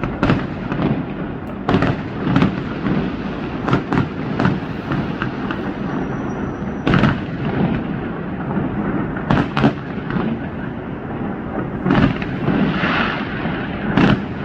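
A 2-inch-calibre firework cake firing: an irregular series of loud bangs as shells launch and burst, one every second or two, over a continuous echoing rumble.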